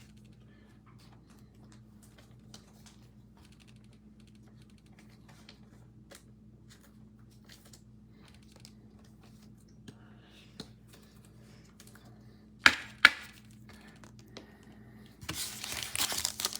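A trading-card pack wrapper being crinkled and torn open, loud and continuous from about three-quarters of the way in. Before it come faint scattered ticks of handling and two sharp snaps about half a second apart.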